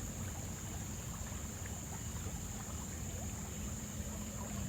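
River water flowing steadily, with a thin steady high-pitched tone above it.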